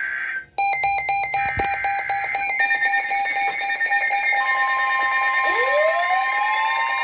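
NOAA Weather Radio alert tones: a brief warbling burst of SAME data tones, then a layered electronic alarm of rapidly pulsing beeps over steady tones. About four seconds in a steady warning-alarm tone joins, and near the end a tone glides up to meet it, announcing a severe thunderstorm warning.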